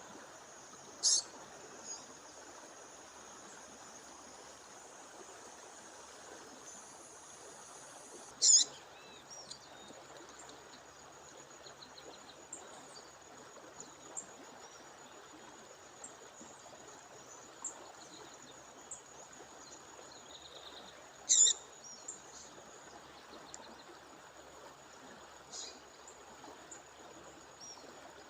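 A female songbird giving short, sharp high calls, the loudest about a second in, around eight seconds in and around twenty-one seconds in, with a fainter one later. Behind them run the steady rush of a waterfall and a thin, continuous high-pitched tone.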